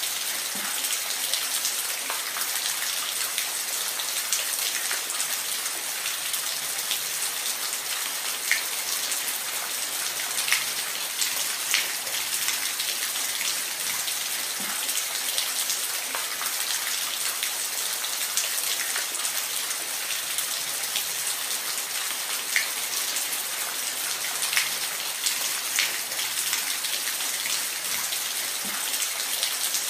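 Steady hiss of falling water, as from a waterfall, with many small scattered splashes and drips.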